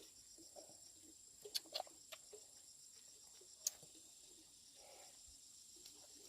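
Faint, steady high-pitched chirring of insects, with a few sharp clicks, most between about one and a half and two and a half seconds in and one more near four seconds, over soft scuffing.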